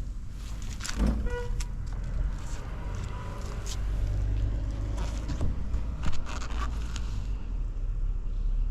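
Suzuki Hi scooter's 50cc two-stroke engine running steadily on a cold start, without abnormal noises, with scattered clicks and knocks.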